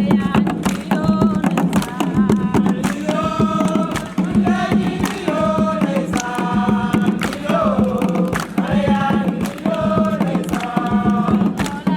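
Voices singing a chant together over dense, fast percussion. Sung phrases come in short repeated lines, clearer from about three seconds in.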